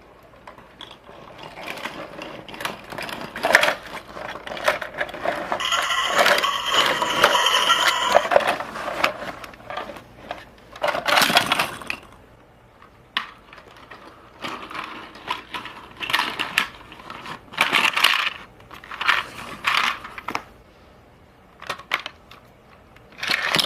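Plastic toy trucks and small toy cars being handled, with clicks, knocks and clattering of plastic parts. A denser, louder stretch of rattling comes a few seconds in.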